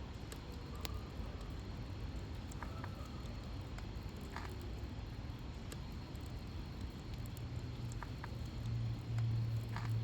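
Wood fire burning in a fire pit, with sparse, irregular crackles and pops over a steady hiss. A low rumble builds near the end.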